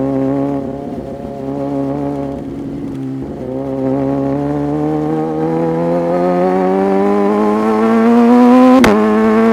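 Superbike engine pulling under acceleration, its pitch climbing steadily over several seconds. A single sharp click comes near the end.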